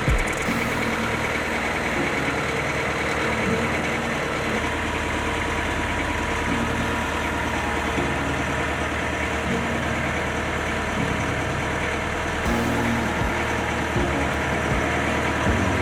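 Bobcat S530 skid steer's diesel engine running steadily, rising slightly in level about twelve seconds in. The machine is on a test run after a bucket cylinder seal repair.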